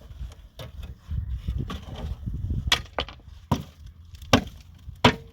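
Four sharp strikes about a second apart in the second half, following lower scraping and knocking, with a brief ringing tone after the last strike.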